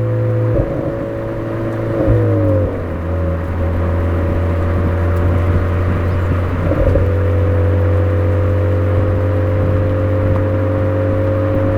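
Exhaust of a Suzuki Swift Sport (ZC33S) with a Fujitsubo aftermarket muffler, its 1.4-litre turbo four-cylinder holding a steady note while driving downhill. The pitch shifts briefly about half a second in, drops about two seconds in, and there is another short change near seven seconds.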